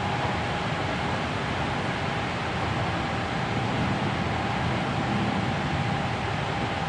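Interior running sound of a Hankyu 7300-series electric train travelling at steady speed, heard from the cabin floor: an even rumble of wheels on rail, with a thin high whine that sinks slightly in pitch.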